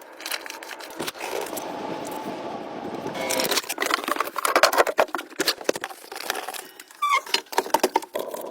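A rapid, uneven run of clicks, knocks and scrapes, the sound of hard objects being handled, with a short squeak about seven seconds in.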